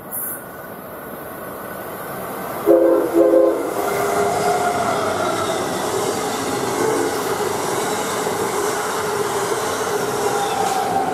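Amtrak Acela Express high-speed electric trainset approaching and passing close by at speed, its wheel and air rush building up. About three seconds in its horn sounds two short blasts, then the steady loud rush of the passing cars carries on.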